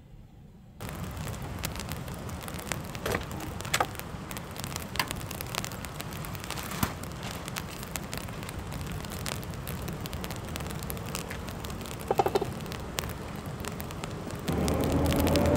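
Steady rain falling on a vehicle, with scattered heavier drops ticking; the rain cuts in suddenly about a second in. Near the end a louder running sound with a slowly rising tone comes in.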